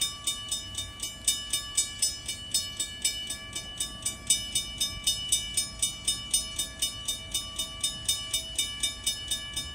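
Railroad grade-crossing warning bell ringing rapidly and evenly, about three strikes a second, signalling that a train is approaching the crossing.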